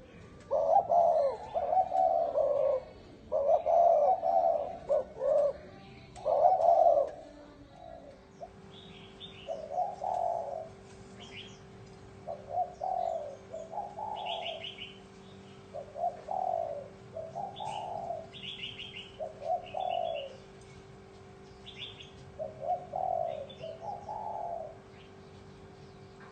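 Spotted dove cooing in repeated multi-note phrases, louder through the first seven seconds, then softer phrases every couple of seconds. Short high chirps come between the later coos.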